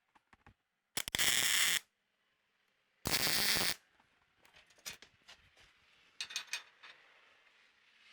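Two short MIG tack welds on the steel bumper, each a crackling burst of under a second, about two seconds apart, followed by a few light metallic clicks and taps.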